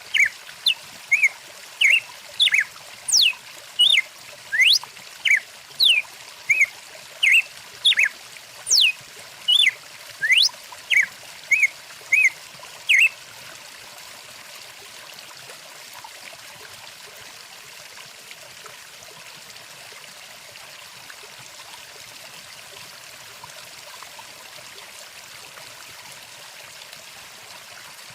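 Stream water running steadily, with a bird calling over it in short whistled notes, some sliding up and some down, about two a second. The bird stops a little under halfway through, leaving only the running water.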